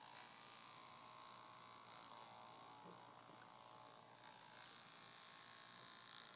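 Cooling fan of a Lenovo X61 tablet PC running with a faint, steady whine and hum, the noise the owner blames on a faulty fan.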